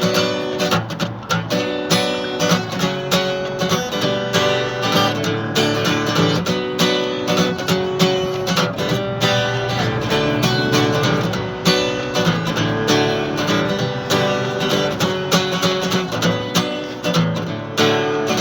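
Acoustic guitar strummed in a steady, driving rhythm: an instrumental break in an acoustic punk song, with no singing.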